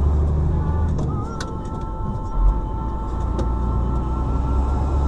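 Car cabin rumble from engine and road, recorded on a dashcam, with a steady two-note tone held from about a second and a half in and a few faint clicks.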